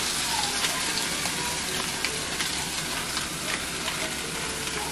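Leeks, bell peppers and potato sautéing in plant butter in a pan as raw ground beef is laid in: a steady sizzle with scattered small pops and crackles.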